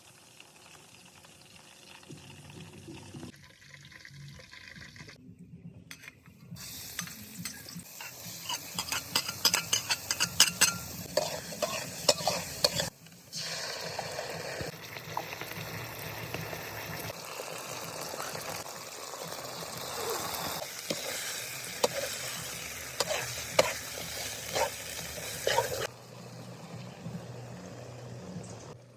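Chicken thighs frying in hot oil: a steady sizzle full of sharp spattering pops. It starts about six seconds in, breaks off briefly near the middle and drops away near the end.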